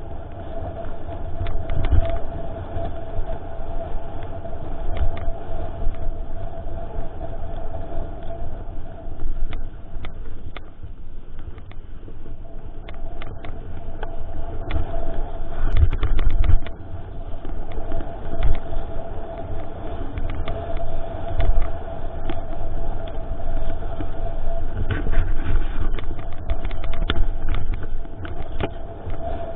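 Mountain bike ridden over a rough forest trail, heard from a GoPro mounted on it: a steady rumble of wind and ground with many rattling knocks and clicks from the bike, and a steady buzz underneath. The rumble swells in a few harder jolts, most strongly about halfway through.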